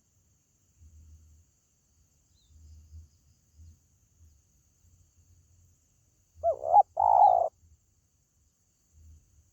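Spotted dove (tekukur) cooing once: a short bending note followed straight away by a longer held coo, after a quiet stretch. Faint low rumbles come and go.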